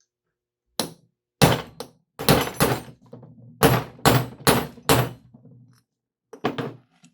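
Hammer blows on a driver set in a Crosley water pump housing, knocking the bushing and the stuck old packing out through the housing. About a dozen sharp metallic strikes come in uneven clusters, each ringing briefly.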